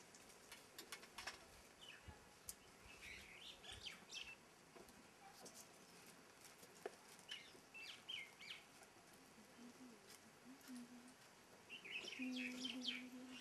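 Faint bird chirps in three short runs over a quiet background with a few light clicks; a low steady hum comes in near the end.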